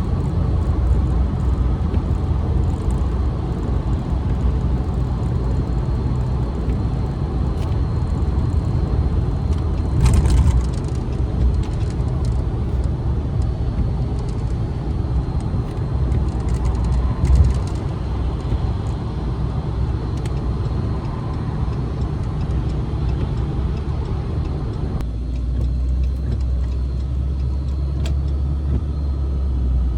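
Steady road and engine drone of a car driving at highway speed, as heard from inside the cabin. There is a brief louder bump about ten seconds in and another around seventeen seconds, and the drone changes tone near the end.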